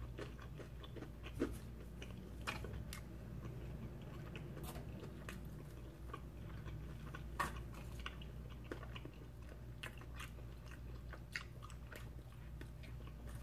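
A person chewing a mouthful of stromboli close to the microphone: faint, steady mouth-and-chewing sounds broken by about six scattered wet clicks and lip smacks. A low steady hum runs underneath.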